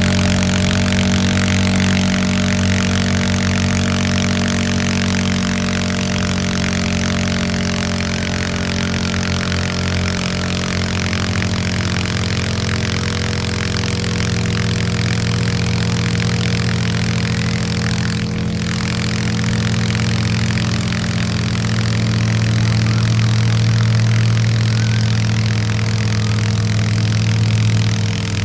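A large pulling-vehicle engine running loudly and steadily, its pitch easing slightly lower over time, with a deeper rumble swelling toward the end.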